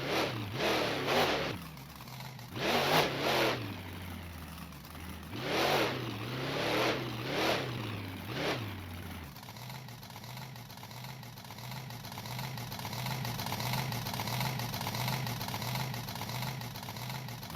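Monster truck engine revving hard in a string of short, sharp blips over the first nine seconds or so, then running steadily with an even, lumpy pulse for the rest.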